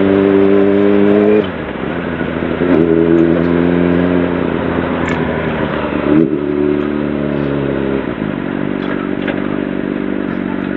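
Honda CBR600RR sportbike's inline-four engine running under way from the rider's seat. The engine note holds steady, falls away about a second and a half in, climbs back and holds, then changes pitch again around six seconds and settles lower near the end. A steady rushing noise runs underneath.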